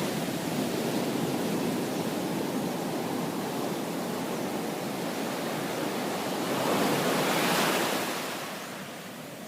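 Surf washing on a beach: a steady rush of breaking waves, with one wave building louder about seven seconds in and then dying away.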